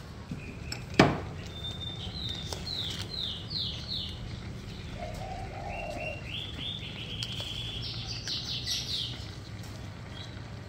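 Small bird singing two phrases of rapid repeated notes, the first about two seconds in and a higher one after about six seconds, over a low steady hum. A single sharp knock about a second in is the loudest sound.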